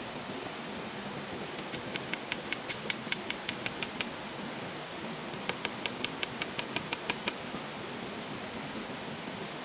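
Two runs of quick, evenly spaced sharp taps, about five or six a second, each lasting about two seconds, over a steady rushing background noise.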